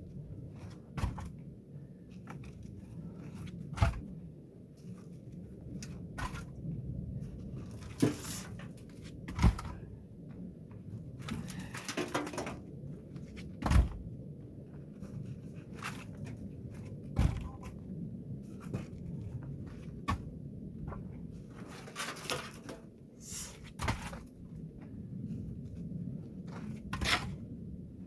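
Pine firewood being handled and stacked: irregular hard knocks and thuds of logs, about a dozen, with short stretches of scraping and rustling between.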